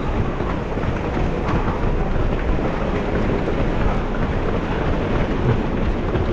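Steady, loud rumbling of strong wind buffeting the microphone, with no separate knocks or tones standing out.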